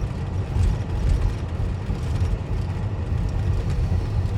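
Steady low drone of a Peterbilt 379's 550 hp Cat C-15 diesel and road noise inside the cab while cruising down the highway.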